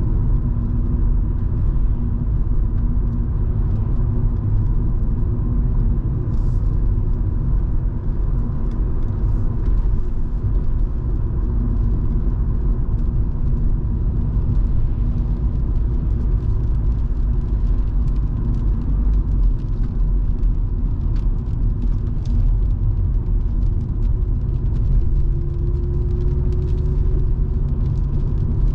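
Volvo V70 2.5T's turbocharged five-cylinder engine and tyres heard from inside the car while driving: a steady low rumble with a faint engine hum over it, and light scattered ticks above.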